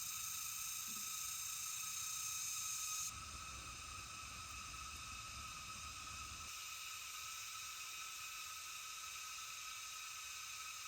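Steady high hiss of jungle insects. The mix changes abruptly about three seconds in and again a few seconds later.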